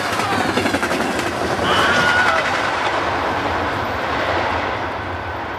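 A train passing close by: a loud, continuous rumble and rattle of wheels on the rails that eases slightly near the end.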